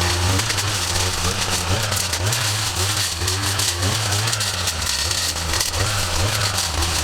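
Motorised yard equipment running, a steady low engine drone with rapidly wavering higher tones over it.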